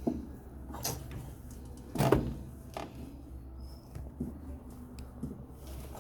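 A few scattered knocks and clacks of hard parts being handled and worked on during a washing machine repair, the loudest about two seconds in, over a steady low hum.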